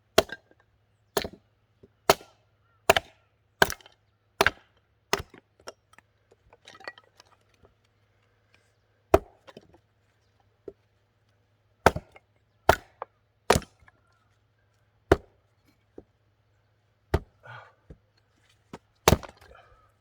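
Axe blows splitting short lengths of tree-of-heaven into small pieces of firewood: a quick run of about seven sharp chops roughly once a second in the first five seconds, then about seven more, spaced a second or two apart.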